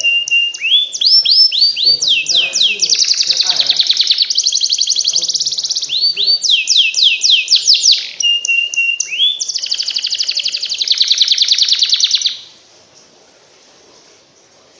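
Domestic canary singing a long, unbroken run of rapid trills and rolls, the same short sweeping note repeated many times a second, with a few short whistled notes between. The song cuts off suddenly about twelve seconds in.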